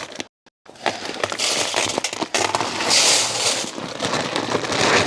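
Dry grain feed pouring into a feed can, a steady rushing hiss of kernels and pellets that is loudest about three seconds in.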